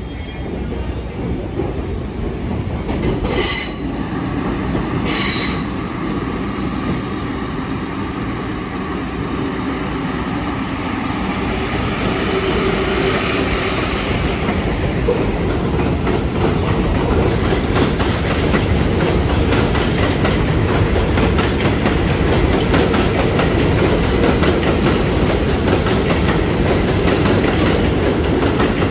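New York City Subway 1 train running on its rails with a dense clattering of wheels over the track. There are two brief high screeches a few seconds in. The sound grows louder over the first half and then holds steady.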